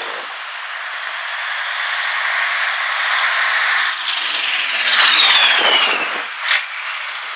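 An old truck driving past. Its noise swells to a peak about five seconds in, with a whine that falls in pitch as it goes by. Near the end there is a short, sharp burst.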